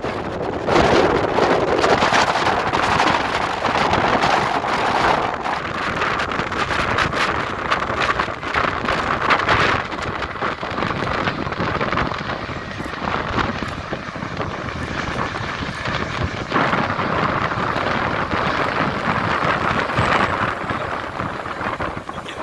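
Airbus A321neo jet engines running as the airliner moves past, a steady rushing roar that swells in the first few seconds and again later, mixed with gusty wind on the microphone.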